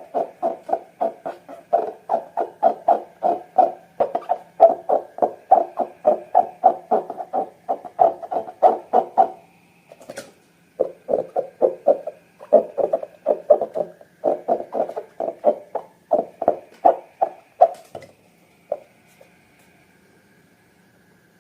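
Slime being squeezed and kneaded by hand, a rapid, regular squishing of about four strokes a second. It breaks off briefly just before halfway, resumes, and stops a few seconds before the end.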